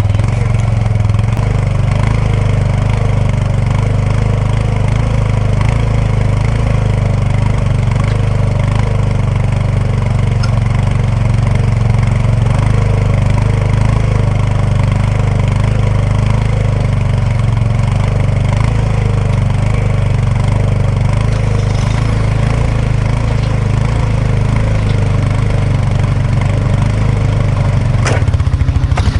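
Kubota B2650 compact tractor's three-cylinder diesel engine running steadily, with a low, even engine note throughout.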